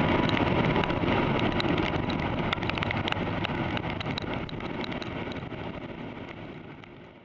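Honda CB400SF motorcycle on the move, with engine and wind noise on the microphone and many scattered sharp ticks. The sound gradually fades out to nothing.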